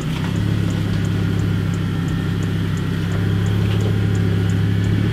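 Lowered Volvo C70's engine running at a steady idle, a constant low hum, with a faint regular ticking about three times a second.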